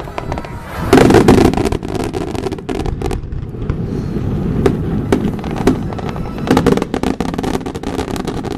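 Aerial fireworks bursting and crackling, with a loud boom about a second in and another cluster of loud bangs near the end.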